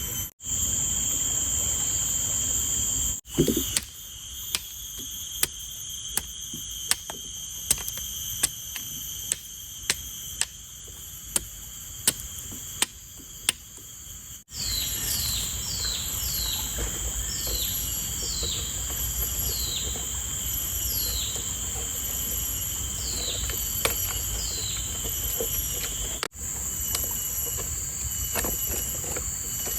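Forest insects keep up a steady high buzz through several cut shots. In the first half a run of sharp knocks comes about one or two a second. In the second half short falling calls repeat every second or so over the buzz.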